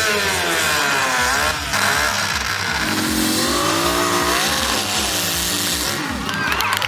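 A big engine-powered chainsaw revving up and down over and over, its pitch climbing and dropping in long sweeps.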